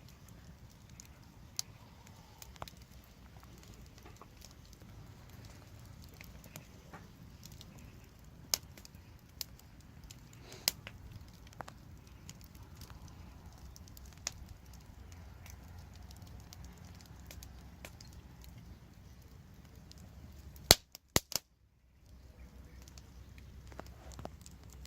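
Wood fire burning with a low steady rumble and sparse, sharp crackling pops. A quick cluster of the loudest pops comes about 21 seconds in, and then the sound drops out entirely for about a second before the fire resumes.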